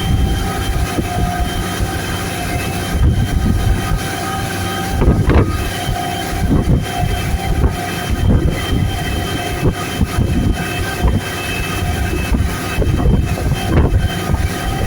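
Motorboat engine running steadily with a constant whine, under wind buffeting the microphone.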